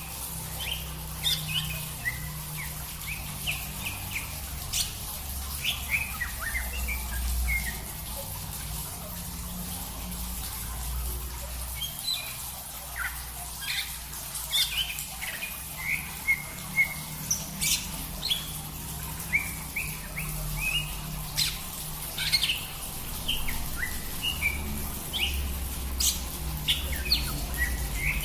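Songbirds chirping: many short, sharp chirps and quick falling call notes, irregular and overlapping, over a steady low hum.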